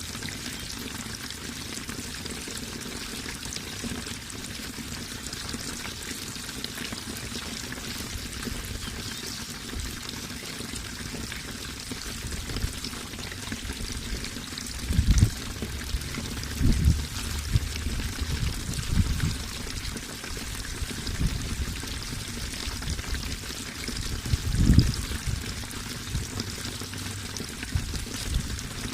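Running water pouring and trickling steadily, with a few brief low thumps or gurgles in the second half.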